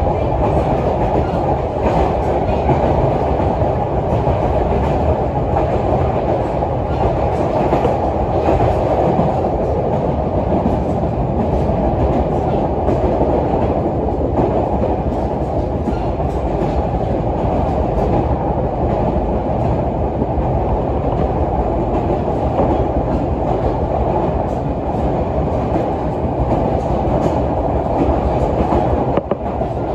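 Yoro Railway 600-series electric train running along the line, heard from inside the car: a steady rumble of wheels and motors, with faint clicks from the rails.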